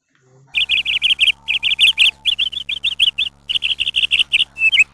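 Small bird chirping: quick runs of short, high, down-slurred chirps in repeated bursts, over a low steady hum.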